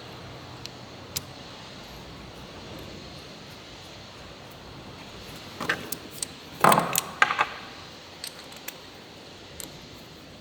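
Metal tools and engine parts being handled: a few sharp clicks, then a short burst of clattering and scraping about six to seven and a half seconds in.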